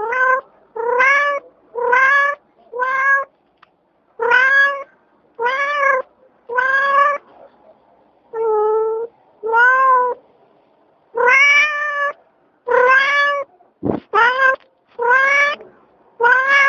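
Cat meowing over and over: about fifteen short meows with brief gaps between them, each one bending slightly up and down in pitch.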